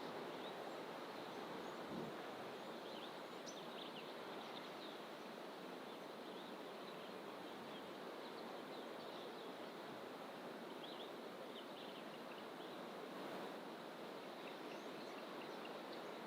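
Birds in bush giving short, faint chirps now and then over a steady rushing background noise.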